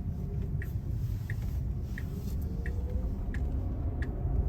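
Car cabin road noise while driving: a steady low rumble from the engine and tyres, with a turn signal ticking evenly, about three ticks every two seconds.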